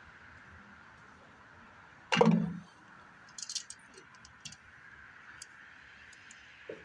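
A single loud knock about two seconds in, followed by a few light clicks and rattles, over a faint steady background hiss.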